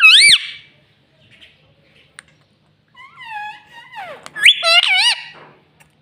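Pet ring-necked parakeet giving shrill, wavering calls: one burst right at the start, a falling call about three seconds in, and a run of warbling calls about four and a half seconds in.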